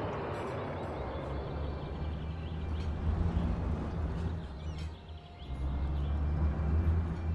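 Outdoor field recording: a steady low rumble that swells twice, with a few faint bird chirps.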